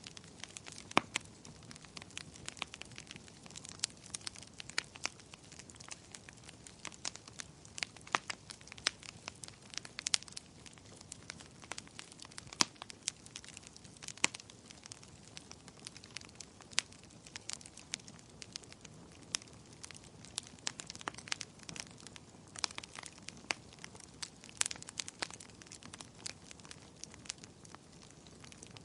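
Wood fire crackling: irregular sharp pops and snaps, several a second, over a low steady hiss.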